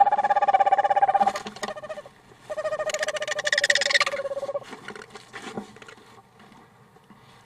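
Owl giving a rapid, even trill on one pitch. The first trill breaks off about a second in, and a second trill follows after a short pause, lasting about two seconds and sinking slightly at the end.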